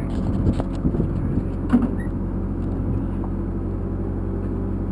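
Engine idling steadily with a low, even hum, and a few light knocks and clunks in the first couple of seconds.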